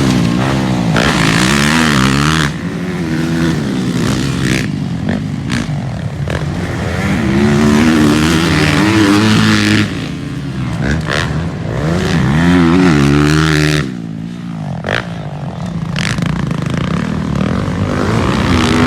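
Motocross dirt bike engines racing, loud, their pitch climbing and dropping again and again as the riders open and close the throttle and shift gears.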